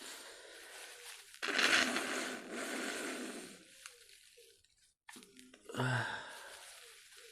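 A person's long, breathy sigh starting about a second and a half in and lasting about two seconds, then a shorter breath with a low murmur near the end.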